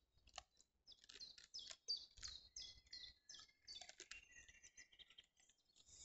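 Faint bird song: short, high notes that each fall in pitch, repeated about three times a second, among scattered chirps.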